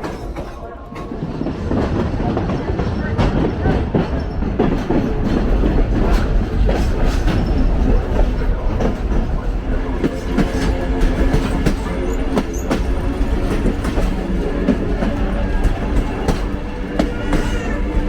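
A passenger railroad car's wheels rolling along the track with a steady rumble and clickety-clack over the rail joints, heard from the car's open rear balcony. From about ten seconds in, thin squealing tones join in: the wheels squealing as the train takes a curve slowly.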